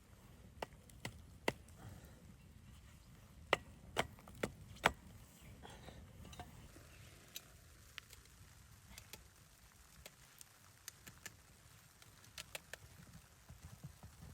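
Irregular sharp knocks and clicks, like wood being struck or snapped. The loudest come as a quick run of four about three and a half to five seconds in, with fainter scattered ones before and after.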